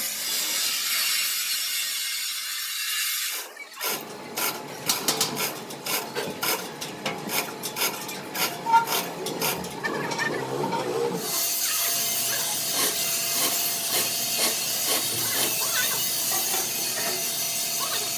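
Workshop noise: a steady hiss, then, from about four seconds in, several seconds of irregular sharp clicks and knocks over scraping, then steady hiss again with a faint hum.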